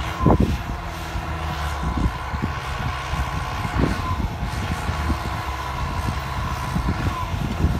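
Turbocharged tractor diesel engine running steadily under load, with a high turbo whistle held over the low engine drone. A couple of brief knocks come through, one just after the start and one about four seconds in.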